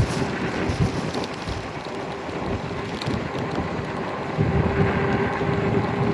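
Wind buffeting the microphone while riding an e-bike, with a steady electric motor whine that grows louder about four seconds in.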